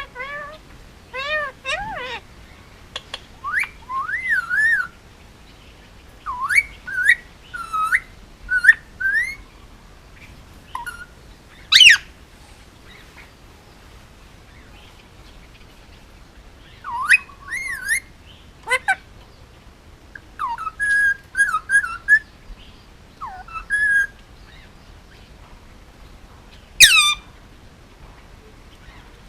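Male Indian ringneck parakeet calling in scattered bursts of short whistles and chirps that bend up and down in pitch, with two loud, shrill squawks, about twelve seconds in and near the end.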